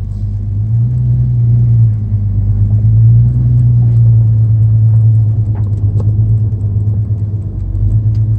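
Ford Mustang V6 engine heard from inside the cabin, pulling away under light load: a steady low drone that swells about a second in and again about three seconds in. A couple of faint clicks come near the six-second mark.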